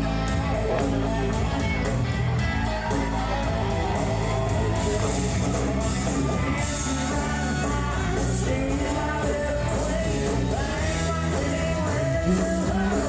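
Live country-rock band playing an instrumental break between verses: drums with a steady fast hi-hat, bass and guitars, with some singing or shouting heard over it.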